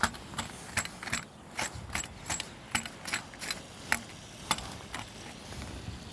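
Footsteps crunching on hard, icy crusted snow: a string of sharp crunches about two or three a second, growing fainter after about five seconds.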